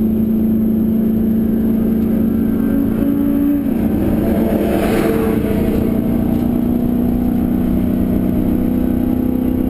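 Holden V8 race car engine running hard at track speed, heard from inside the cabin. About three and a half seconds in the engine note changes and a rushing noise swells briefly. Then the engine settles into a steady pull, its pitch slowly climbing.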